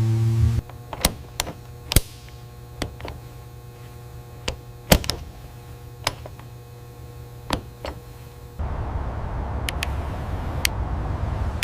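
Scattered sharp clicks and knocks over a steady low hum, then a louder even rumbling noise from about nine seconds in.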